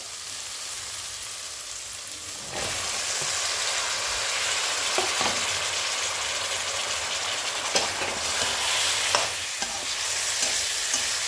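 Cut drumstick (moringa pod) pieces tipped into hot oil and tomato masala in a steel kadai. The sizzle jumps louder about two and a half seconds in, then keeps frying while a spatula stirs, with a few scrapes against the pan.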